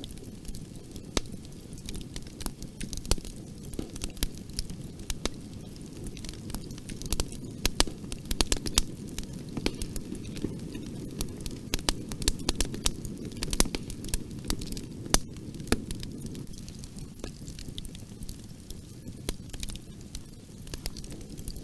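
Wood fire crackling in a fireplace: a steady low rumble of flames with frequent, irregular sharp pops and snaps, thickest around the middle.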